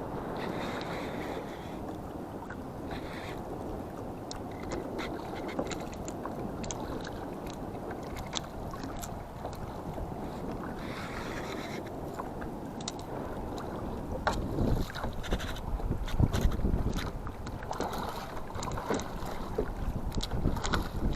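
Wind buffeting the microphone over a steady outdoor hiss, with scattered light clicks and taps; the gusts get heavier about two-thirds of the way in.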